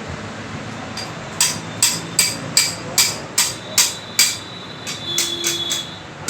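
Hammer striking metal in a steady rhythm, about two to three blows a second, with a brief ringing tone near the end.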